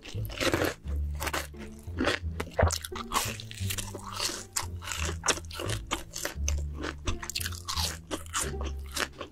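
Crispy fried chicken being bitten and chewed, a rapid run of crisp crunches, over a low background music bassline.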